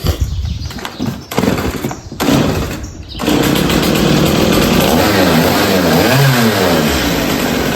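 Two-stroke chainsaw running. For about three seconds it idles unevenly, then it is revved up to high speed and held there, its pitch rising and falling.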